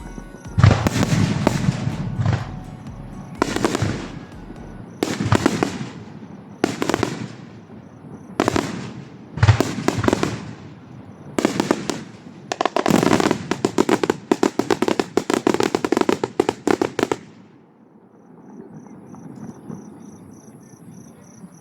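Fireworks bursting one after another, with a dense run of rapid crackling shells near the end of the barrage, about 13 to 17 seconds in, before it dies away.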